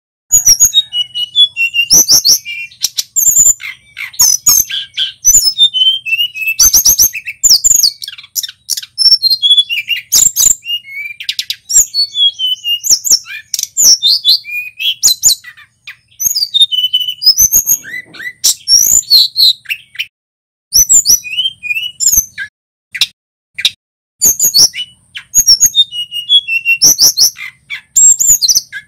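Male tledekan gunung singing: fast runs of sharp, high chirps and whistled notes broken by short pauses.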